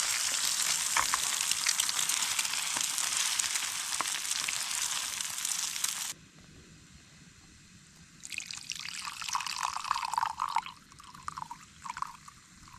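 Food sizzling in a frying pan with a steady hiss that cuts off suddenly about six seconds in; a couple of seconds later liquid is poured in an unsteady, wavering trickle.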